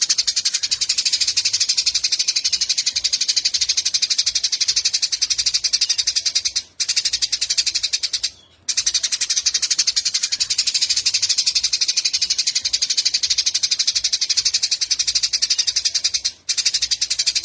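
Eurasian tree sparrows chirping in a rapid, continuous chatter of high chirps, broken by short pauses three times.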